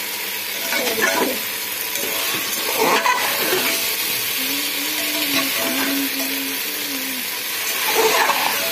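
Jackfruit and potato curry sizzling in an aluminium pressure cooker while a metal spatula stirs it, with scraping strokes against the pot about a second, three seconds and eight seconds in.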